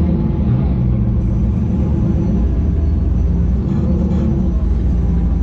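Loud, steady low rumble of a big off-road vehicle engine running.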